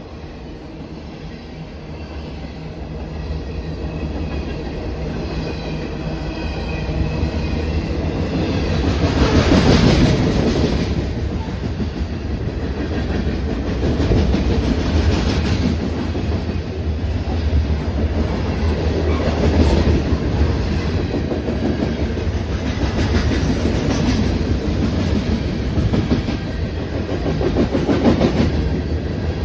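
Train passing at close range. It grows louder over the first ten seconds, then the rail cars keep rolling by with a continuous clickety-clack of wheels on the rails.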